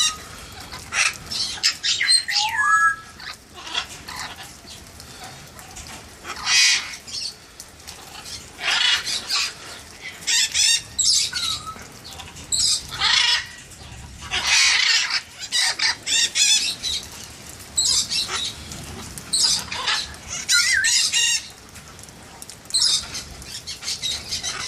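Parrots squawking with loud, harsh calls, one burst after another every second or two, over a steady hiss of rain.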